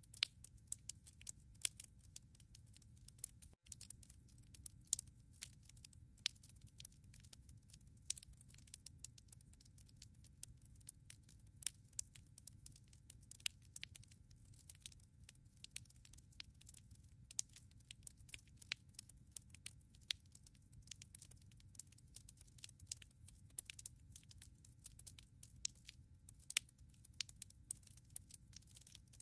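Wood fire crackling in a fireplace: irregular sharp pops and snaps, several a second, over a low steady rumble. The sound cuts out for an instant about three and a half seconds in.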